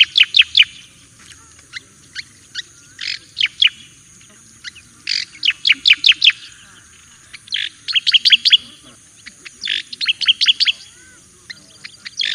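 Striated grassbird (cica koreng jawa) singing: phrases of four to six sharp, quickly repeated whistled notes, one phrase about every two seconds, over a steady high hiss.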